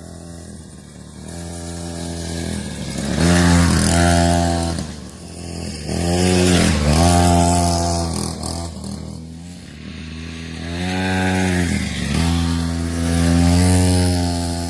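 Small petrol engine of a children's quad bike (ATV) running and revving, its pitch swelling up and easing off three times.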